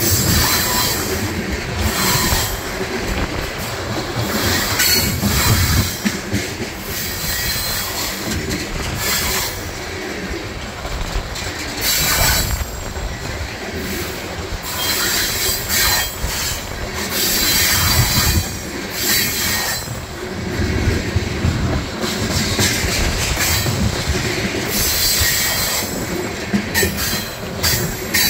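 Freight train of tank cars rolling past close by: a steady rumble of steel wheels on rail, with repeated spells of high-pitched wheel squeal and sharp clacks over the rail joints.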